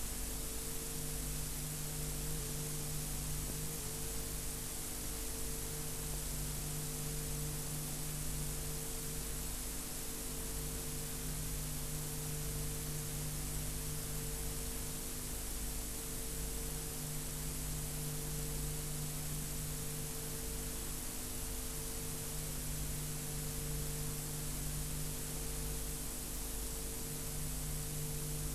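Steady hiss with an electrical mains hum: the recording's own background noise, with no speech or other events.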